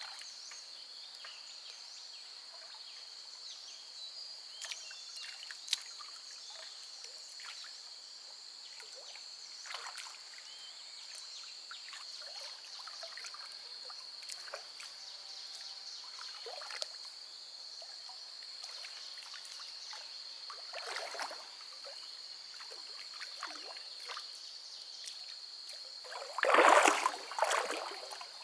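Water splashing and sloshing in short, scattered bursts, with a louder run of splashes near the end, over a steady high-pitched drone.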